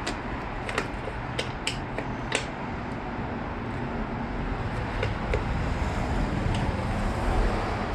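Sharp small clicks and taps of hand tools and screws as motorcycle fairing screws are backed out, several in the first two and a half seconds and a few more later, over a steady low rumble.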